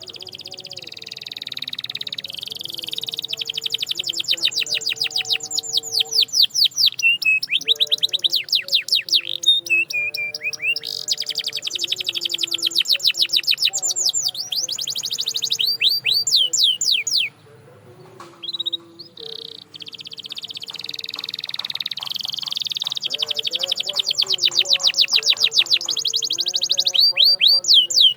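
Canary singing in long, fast trills of rapidly repeated downward-sweeping notes, the rolls changing speed and pitch from phrase to phrase. The song breaks off for about two seconds past the middle, then builds again.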